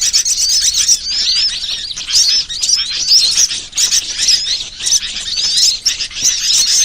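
Bird-lure recording of many small birds chirping and twittering at once, a dense, high-pitched chatter of quick overlapping calls.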